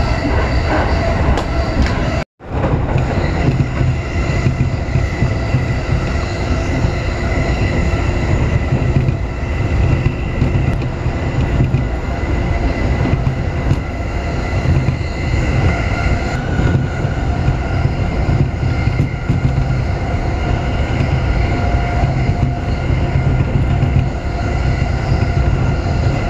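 JR Keiyō Line electric commuter train running at speed, heard from inside the car: a steady rumble of wheels on rail with a steady whine over it. The sound cuts out for a moment about two seconds in.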